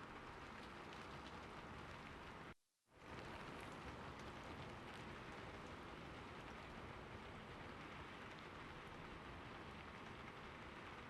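Faint, steady rain-like hiss. About two and a half seconds in it cuts out completely for a moment, then resumes.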